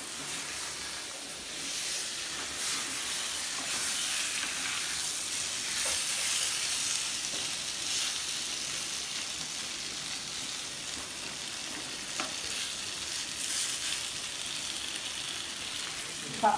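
Marinated chicken frying in butter in a clay pot: a steady sizzling hiss with scattered crackles.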